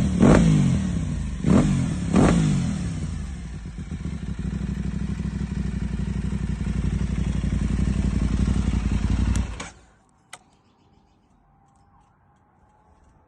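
Parallel-twin sport-bike engine blipped sharply three times in the first two and a half seconds, then settling to a steady idle. About ten seconds in it stops suddenly, followed by a single click.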